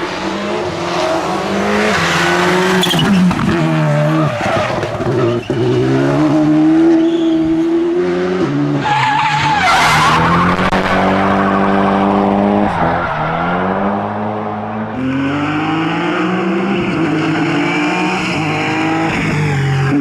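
Rally car engine revving hard, its pitch climbing and dropping again and again as it changes gear, with tyre noise underneath.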